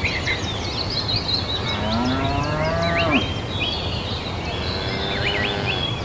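Cattle mooing: one drawn-out moo that rises and falls in pitch about two seconds in, and a fainter one near the end.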